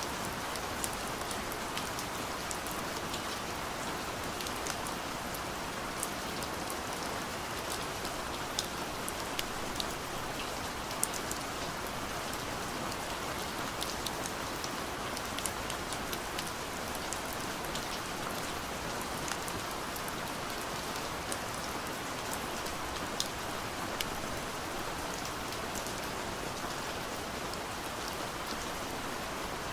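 Steady gentle rain pattering on a window, a constant hiss with many small, sharp drop ticks scattered through it.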